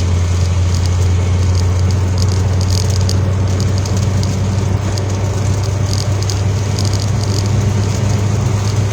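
Vehicle engine running, heard from inside the cab as a steady low hum with constant road or cabin noise.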